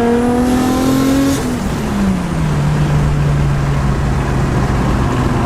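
Turbocharged RB25 straight-six of a 240SX heard from inside the cabin, pulling hard with revs climbing for about a second and a half. The revs then drop as the throttle comes off and settle into a steady, lower drone.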